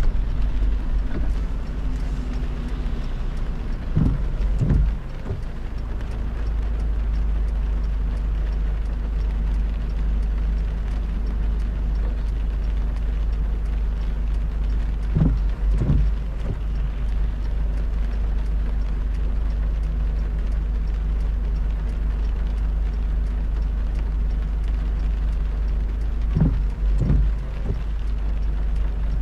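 Steady low drone of a car driving on a wet road in heavy rain, with a double thump three times, about eleven seconds apart.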